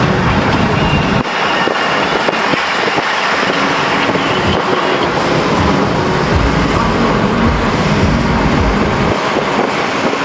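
A car travelling at highway speed: steady road and wind noise.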